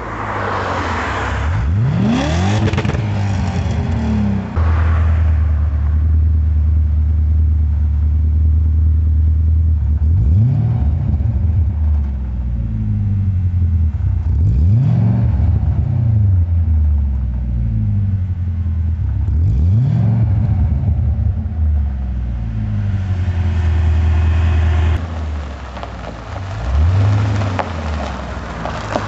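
BMW E38 730i's 3.0-litre V8 running at idle with a deep exhaust note through an aftermarket HH-Spezial exhaust, revved up briefly and let fall back to idle several times.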